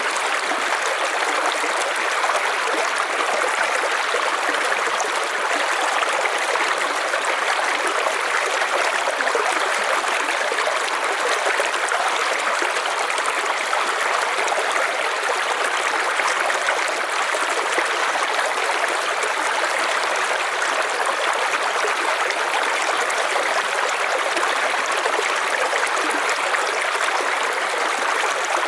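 River water flowing and splashing over stones, a steady rushing sound.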